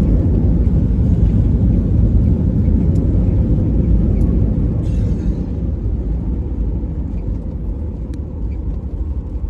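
Airliner cabin noise just after touchdown: a loud, even low rumble from the engines and the wheels on the runway, easing off gradually through the second half as the plane slows.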